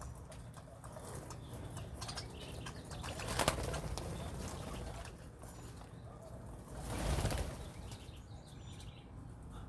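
Birds flapping their wings, with two louder flurries about three and a half and seven seconds in, among scattered small clicks.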